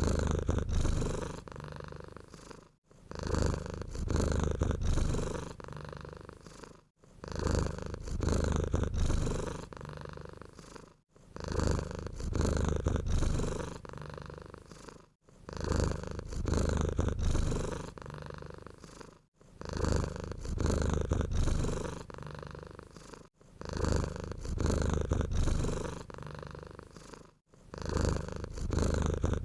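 Domestic cat purring steadily in even cycles about every four seconds, a louder stretch and a softer stretch with the breath in and out, separated by short breaks.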